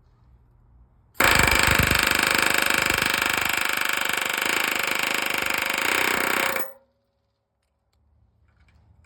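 Pneumatic air hammer running in one continuous rapid hammering burst. It starts abruptly about a second in and cuts off about five and a half seconds later.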